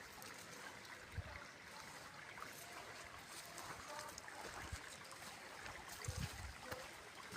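Steady rush of running water, like a stream, with a few soft low thumps.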